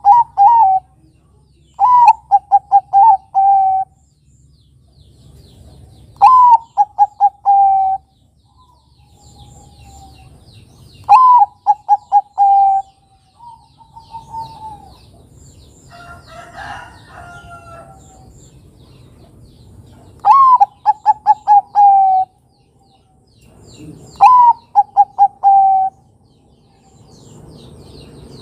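Bangkok-type zebra dove (perkutut) cooing its song six times, a few seconds apart. Each phrase opens on a higher note and runs into a quick string of repeated, slightly falling coos. Faint high chirps from small birds and one brief rougher call come in between the phrases.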